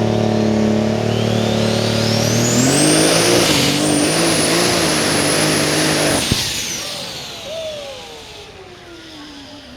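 Pulling vehicle's engine running hard under load, with a high whine rising and then holding. About six seconds in there is a sharp crack and the engine cuts out, its whine and rumble falling in pitch as it winds down.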